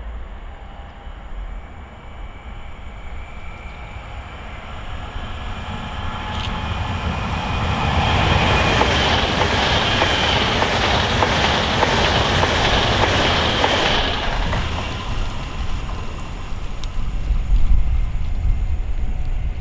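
Pesa ED161 Dart electric multiple unit passing at speed, its wheels rolling on the rails. The noise swells as it approaches, is loudest for about six seconds in the middle, then fades away. A low rumble runs underneath throughout.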